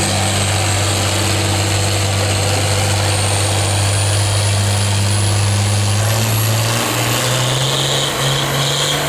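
Pulling vehicle's engine running hard under load as it drags the weight sled down the track: a steady low drone whose pitch steps up about seven seconds in, with a thin high whine slowly rising over it.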